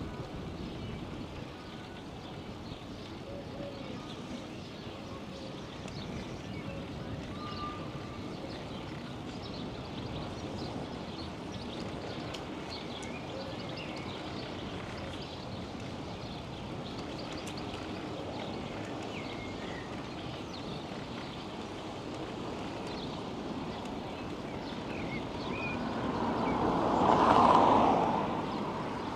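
Outdoor bicycle-ride ambience: a steady rolling noise with scattered small bird chirps. Near the end a vehicle passes, swelling up over a couple of seconds and fading quickly.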